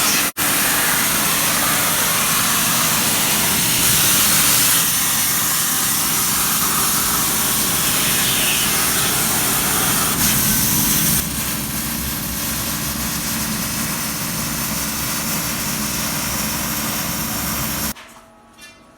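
Plasma cutter cutting sheet metal: a loud, steady hiss of the arc and air jet. It drops briefly just after the start, steps down a little about eleven seconds in, and cuts off abruptly near the end.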